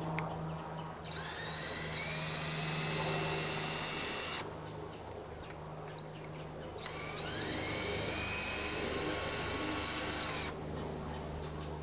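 Power drill-driver run twice, each time for about three and a half seconds, a high whine that rises in pitch as the motor spins up, backing screws out of a wooden birdhouse.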